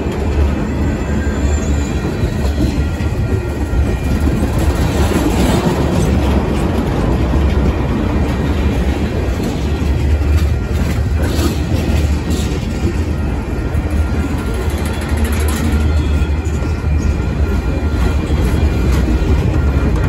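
Union Pacific freight train's tank cars and boxcars rolling past close by: a steady rumble of steel wheels on rail, with occasional knocks from the wheels and couplers.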